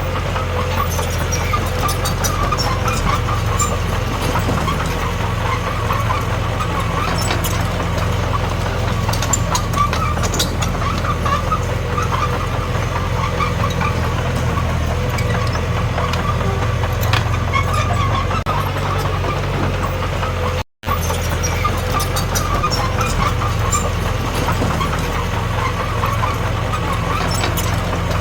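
Heavy diesel earthmoving machinery running steadily under load, a constant low engine drone with faint scraping and clanking over it. The sound drops out for an instant about two-thirds of the way through.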